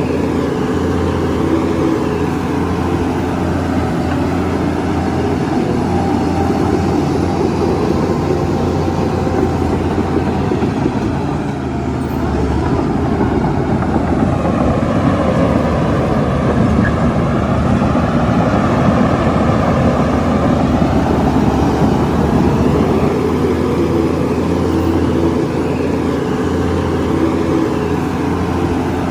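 Heavy diesel engine of a Shantui bulldozer running under changing load, its note sagging and rising as it works, with a brief drop about twelve seconds in.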